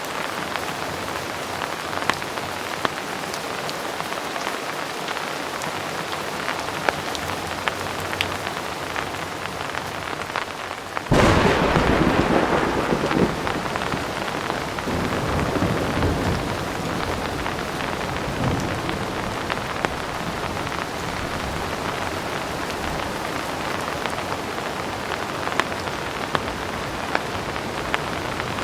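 Steady heavy rain with scattered sharp drop ticks; about eleven seconds in, a sudden thunderclap breaks in and rumbles on, fading over several seconds back into the rain.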